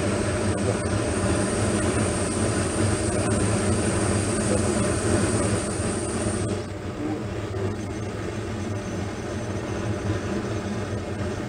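Natural-gas (methane) kazan burner running with a steady flame noise and low hum. About six and a half seconds in, a high hiss cuts off and the sound drops slightly.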